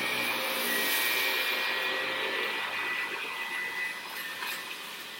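Eureka 1934A vacuum cleaner motor running steadily just after switch-on, a high whine over a rush of air, easing off slightly in loudness, with a couple of faint clicks in the second half.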